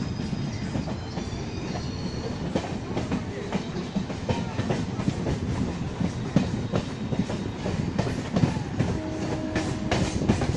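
Suburban local train running on the rails, heard from inside the passenger coach by an open window: a steady low rumble with rapid, irregular clickety-clack knocks of the wheels over rail joints. A brief steady tone sounds near the end.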